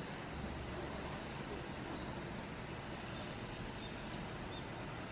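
Steady low rumble of traffic or an idling vehicle under an even hiss, with several short rising bird chirps in the first two seconds or so and a few brief high bird notes later on.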